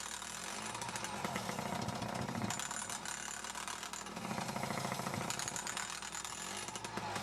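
Atlas Copco Cobra Combi two-stroke petrol breaker hammering rapidly with its driver attachment, driving steel wedges into holes drilled in concrete to split it. The rapid hammering swells and eases a few times and cuts off at the end.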